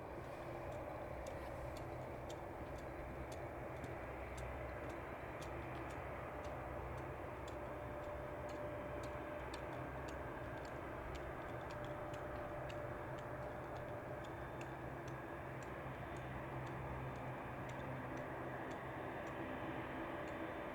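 Faint, steady airport rumble and hum with a held mid-pitched tone, the sound of jet engines at a distance. Over it runs a light, sharp ticking, roughly two ticks a second.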